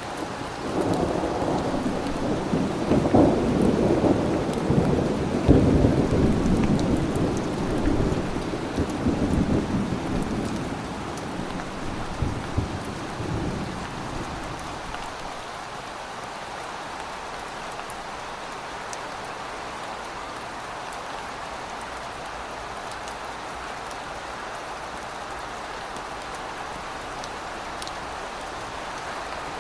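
Steady heavy rain with a long rolling peal of thunder: the rumble builds about a second in, peaks a few seconds later, swells once more and fades out about halfway through, leaving the rain alone.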